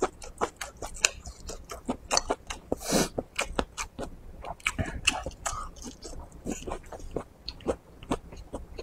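Close-miked chewing of a mouthful of rice and red pepper, with many quick, irregular wet mouth clicks and a short louder hiss about three seconds in.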